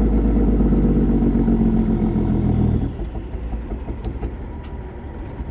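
Caterpillar 3406E diesel truck engine with 6-inch straight pipes, running loud and strong with its pitch sagging slightly. About three seconds in it drops off sharply to a quieter, rougher rumble with scattered crackles.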